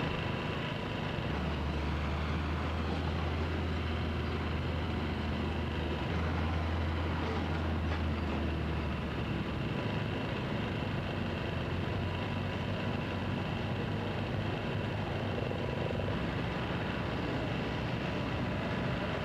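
Engine of a pulling tractor running steadily, a low drone that drops away about nine seconds in.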